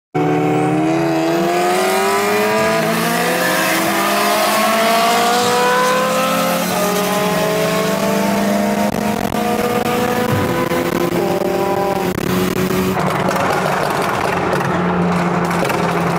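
A car's engine under hard acceleration, heard from inside the cabin: its pitch climbs steadily, dips once about six seconds in as it shifts up, then climbs again. About thirteen seconds in the engine tone fades and a steady rush of wind and tyre noise takes over as the car lifts off.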